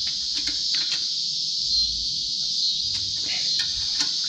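Steady, high-pitched chirring of insects in the background, with a few short sharp clicks and knocks from tools and metal parts.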